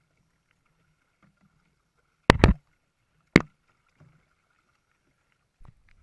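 Sharp knocks on a kayak: two in quick succession about two seconds in, a third about a second later, then a fainter one near the end.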